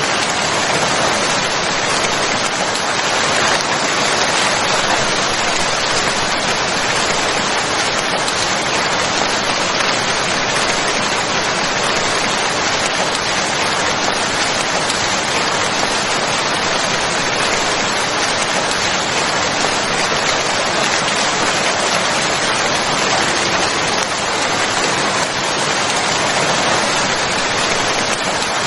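Steady, dense rainfall pattering, an even hiss of rain with no breaks.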